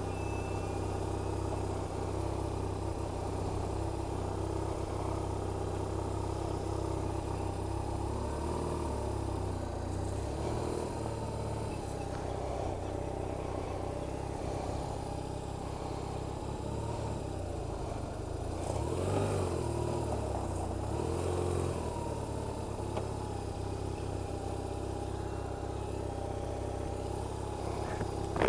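BMW R1150RT's flat-twin boxer engine running at a steady note, its pitch wavering briefly about two-thirds of the way through.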